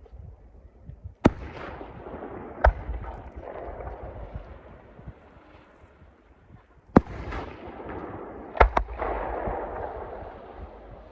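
Aerial firework shells bursting: five sharp bangs, the last two in quick succession, each followed by a rolling rumble that dies away.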